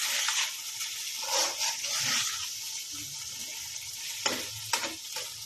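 Chicken macaroni sizzling in a frying pan while it is stirred and tossed, with a steady hiss and a utensil scraping through it, two sharper scrapes near the end.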